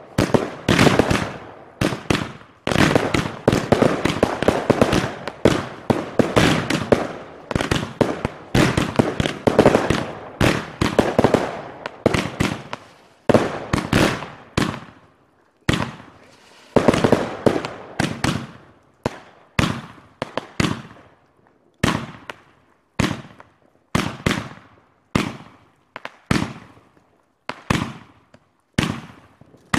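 Fireworks and firecrackers going off all around: a dense run of overlapping bangs and crackle for the first dozen seconds and again briefly past the middle, otherwise single sharp bangs about one a second, each dying away in a short echo.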